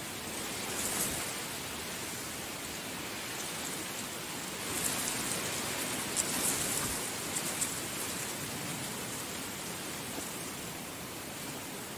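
Heavy rain falling steadily, with brief louder spatters of drops about a second in and again around the middle.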